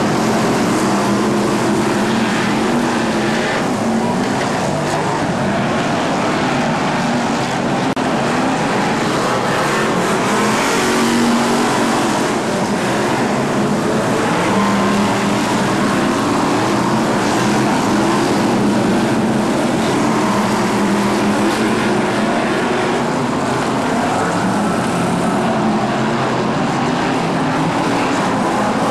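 A pack of BriSCA F1 stock cars with V8 engines running together around an oval track, the engine notes rising and falling without a break.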